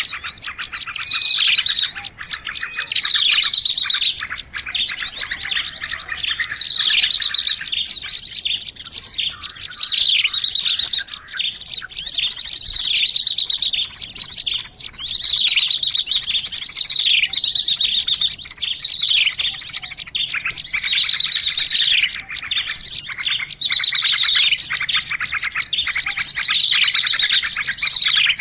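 Small songbirds chirping densely and loudly, a bird-lure call track: rapid high trills overlaid with downward-sweeping calls that repeat every couple of seconds, continuous without a break.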